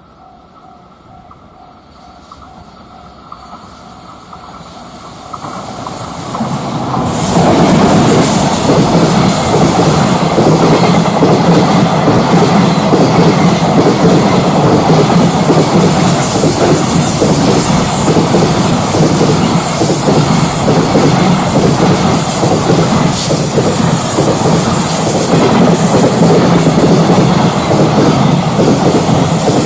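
Container freight train approaching and passing close by, growing louder over the first several seconds. Then a long, steady run of wagons with the wheels clattering rhythmically over the rail joints.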